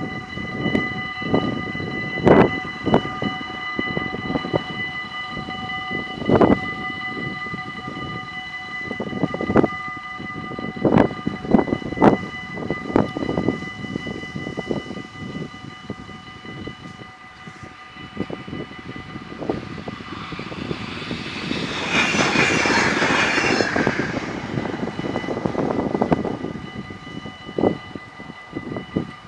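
Level-crossing warning bells ringing steadily with the barriers down, while a Stadler GTW electric train passes: its noise builds from about 19 s in to a loud rush with a fast wheel-on-rail rhythm around 22 to 24 s, then fades. Irregular low thumps are heard throughout.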